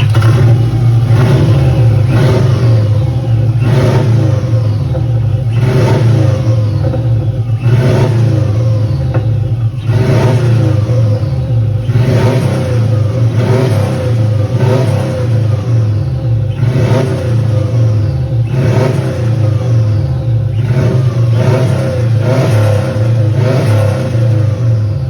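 Turbocharged Subaru 2.0 SOHC flat-four engine blipped over and over from idle, about every second or two, with turbo flutter as the throttle snaps shut after each rev.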